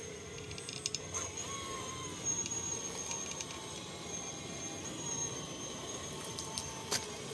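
Electric drive motor and gearbox of a 1/14 scale RC model tractor running as it drives, a steady high whine with slight shifts in pitch over a low rumble, with a few sharp clicks about a second in and near the end.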